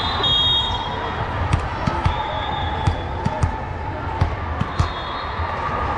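Volleyball play in a gym: irregular thuds of the ball being struck and bouncing on the court, with short high squeaks a few times, over a steady bed of crowd voices.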